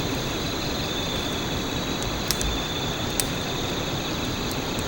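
Autumn crickets trilling steadily in a high band over a constant background hiss, with a few sharp pops from the wood campfire about two and three seconds in.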